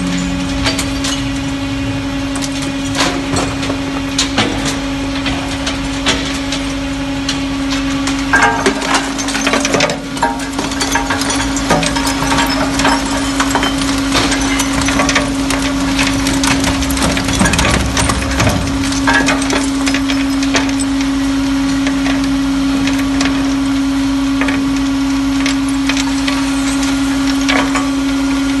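Scrap-metal separation line for cracked car engines running: a steady machine hum under constant clattering and knocking of broken metal engine pieces, with heavier bouts of crunching about a third and two thirds of the way through.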